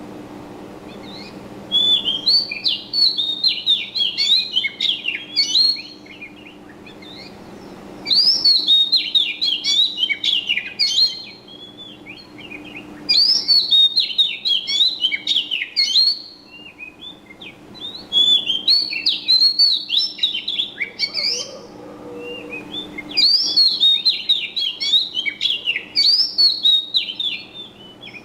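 Small songbird singing in repeated bouts of rapid, jumbled twittering chirps, each bout lasting a few seconds with short pauses between, five times over, with a faint steady low hum beneath.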